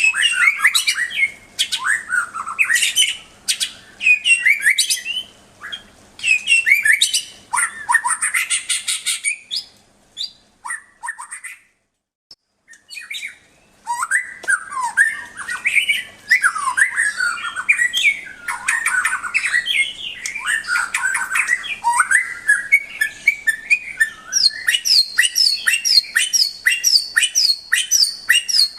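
White-rumped shama (murai batu) singing a rich, varied song of rising and falling whistles and chattering phrases, with a brief pause about eleven seconds in. Near the end it repeats one sharp high note about three times a second, over a faint steady hum.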